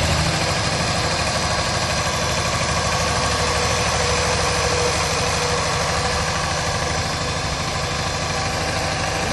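Car engine idling steadily, an engine that was driven about 1000 km after the sale and then ruined.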